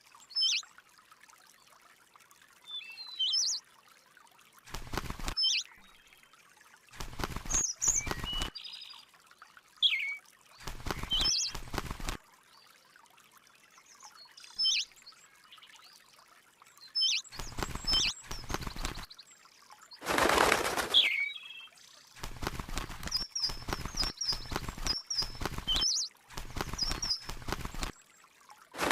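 A small bird giving short, quick chirps that slide up and down in pitch. Repeated bursts of rustling or fluttering noise come between the chirps, the loudest about twenty seconds in.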